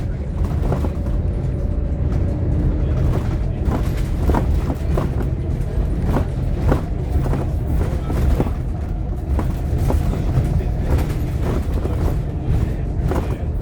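Interior sound of a moving Scania K230UB OmniLink single-deck bus: a steady low rumble from its diesel engine and the road, with frequent sharp rattles and clicks from the body and fittings.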